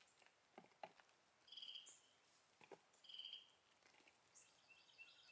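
Faint bird calls over near silence: two short high calls about a second and a half apart, then a quicker run of high notes near the end, with a few soft clicks in between.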